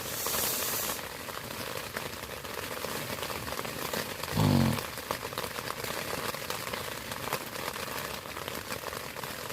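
Steady rain pattering on a tent's flysheet, heard from inside the tent as a dense hiss of fine drop ticks. There is a short rush of noise at the start, and a brief low vocal murmur about four and a half seconds in.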